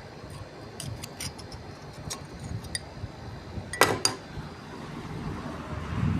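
Light metallic jingling and clicks, with a sharper, louder clatter about four seconds in, over a low steady rumble.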